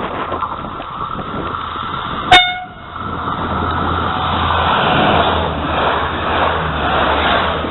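A train's horn gives one short toot about two seconds in, followed by the rushing noise of a train passing, which builds and stays loud.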